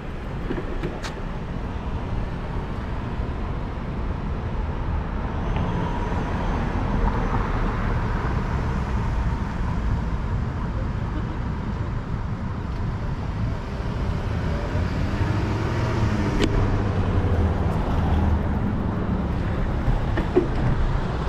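City street traffic heard from a moving bicycle, with a steady low rumble of wind on the microphone and a couple of sharp clicks.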